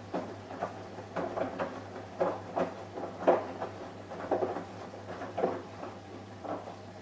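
Samsung Eco Bubble front-loading washing machine running a wash: irregular soft thuds and swishes of laundry and water tumbling in the drum, over a steady low hum.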